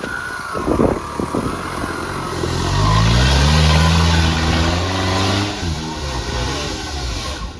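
Off-road 4x4 engine revving. Its pitch climbs a couple of seconds in, holds at full revs for about three seconds, then drops off, under a steady hiss.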